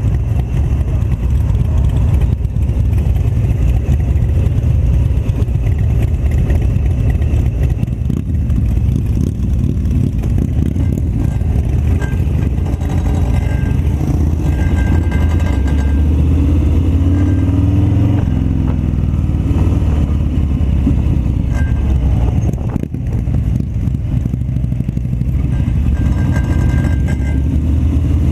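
Harley-Davidson Fat Bob V-twin motorcycle engine running steadily while being ridden. Its pitch rises and falls once about two-thirds of the way through.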